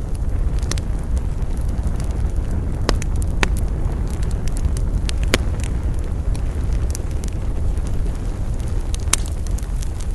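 Wood campfire burning: irregular sharp crackles and pops, a few standing out louder, over a steady low rumble.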